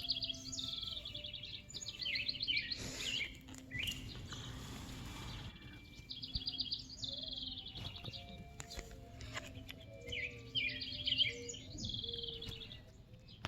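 A songbird singing, repeating the same song phrase of rapid trilled notes four times, with pauses of a second or two between them. A short hiss comes in about four seconds in.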